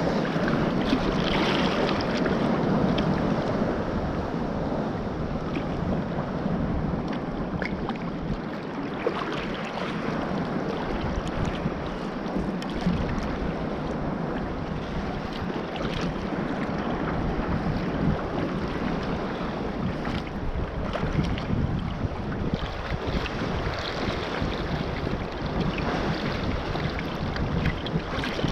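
Wind buffeting the microphone over sea water washing around a kayak, a steady rushing noise with small scattered splashes.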